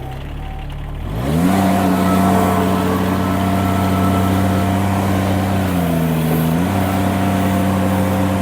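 Mini skid steer engine throttled up from a low idle to a steady high speed about a second in, then pulling down briefly under load a few seconds later before recovering.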